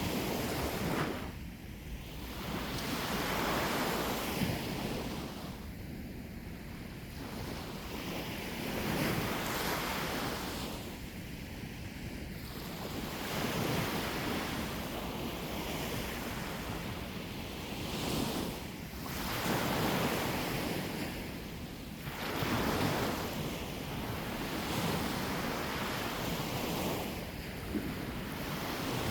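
Sea waves breaking and washing on the shore, the surf noise swelling and fading every few seconds.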